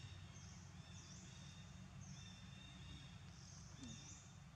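Near silence of outdoor ambience: faint, short, high-pitched bird calls repeating about once a second over a low steady rumble.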